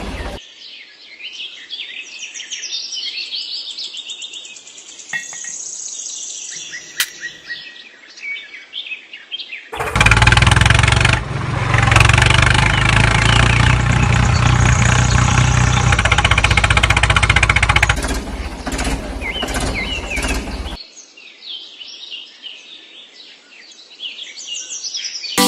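Birds chirping, then about ten seconds in a loud, steady motor starts running for around eleven seconds and cuts off, after which the chirping continues.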